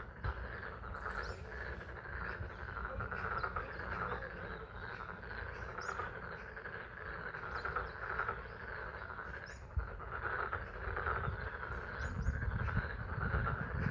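A dense chorus of frogs calling steadily at a pond in spring rain, with a few brief high chirps from birds now and then.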